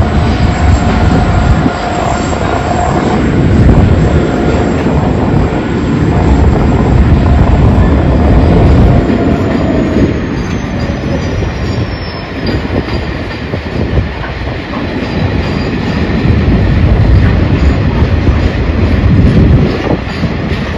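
A diesel-hauled freight train of container wagons passing, with locomotive engines running and wheels rumbling and clattering over the rails. A thin whine falls in pitch around the middle.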